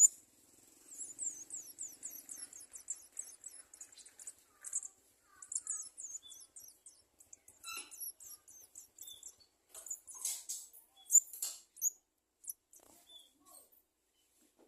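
Garden sunbird nestlings chirping: rapid runs of very high, thin squeaky calls, densest in the first few seconds and then more scattered, with a few sharp clicks.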